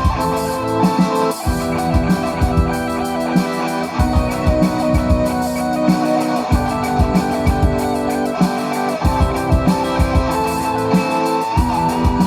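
Live instrumental rock with guitars and accordion: held chords that change every couple of seconds under a wavering lead melody, over a steady beat.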